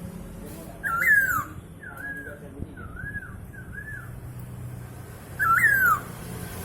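Poksay hongkong (laughingthrush) singing: a loud swooping whistle about a second in, a run of softer wavy whistled notes, and a second loud swooping whistle near the end.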